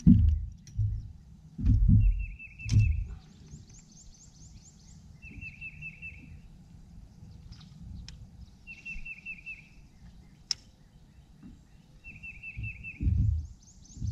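A songbird repeating a short phrase of quick, high, evenly spaced notes about every three and a half seconds. Low thumps and rumble come at the start and near the end, and there is one sharp click about ten seconds in.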